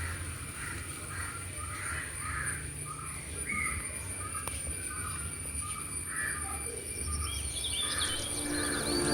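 Birds calling outdoors: a run of short, repeated calls about two a second, joined near the end by higher, gliding chirps, over a low steady background rumble.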